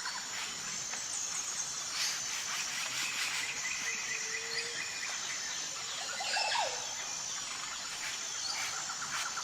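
Outdoor ambience: insects trilling steadily at a high pitch, with a few short bird chirps.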